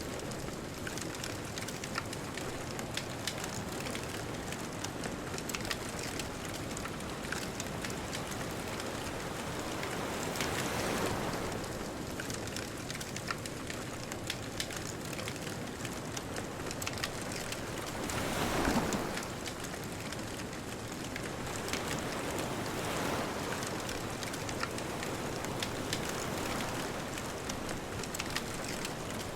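Bonfire crackling steadily, with many small sharp crackles over a constant hiss, while ocean waves wash onto the shore in three slow swells, the loudest about two-thirds of the way through.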